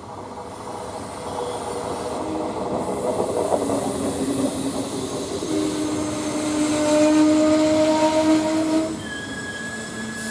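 Trenord regional passenger train rolling into the station over the track, its wheels and brakes squealing in steady tones as it slows. The squeal is loudest from about six to nine seconds in, then drops off sharply and leaves a thinner, higher squeal.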